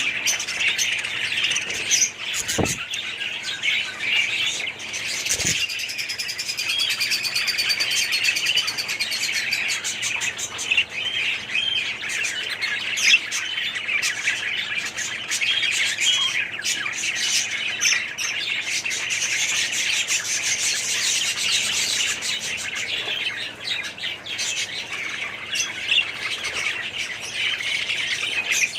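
A colony of budgerigars chattering and chirping all at once in a continuous warbling din, with occasional squawks. Two faint low thuds come in the first few seconds.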